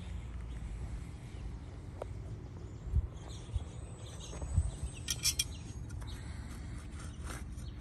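Birds chirping briefly about five seconds in, over a steady low outdoor rumble, with a few dull thumps around three and four and a half seconds.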